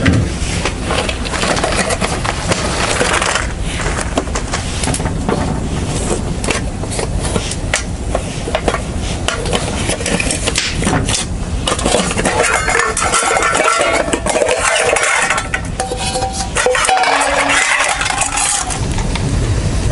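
Bonfire of dead leaves and dry twigs burning, with dense crackling and many sharp pops.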